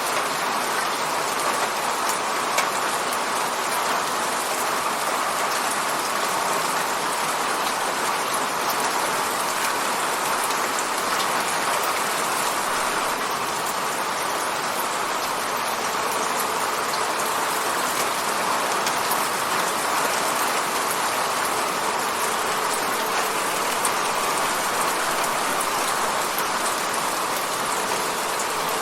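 Steady rain pattering on an apartment window, an even hiss with scattered small drop ticks on the glass.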